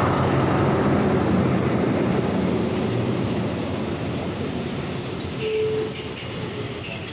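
Diesel-hauled passenger train rolling slowly past: the locomotive's low engine rumble at first, then the carriages, with a high, steady squeal from about three seconds in as the train slows to stop at the platform.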